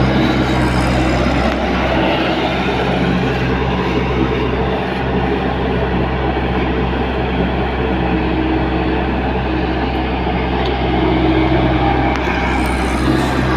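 Diesel engine of a Tata Hitachi EX70 Prime excavator running steadily. The low engine note eases after about a second and a half and firms up again near the end.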